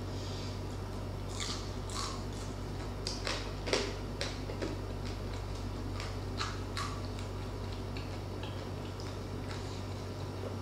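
Close-up chewing and crunching of crispy deep-fried pork knuckle (crispy pata), with sharp crackles coming mostly in the first two-thirds and fewer toward the end, over a steady low hum.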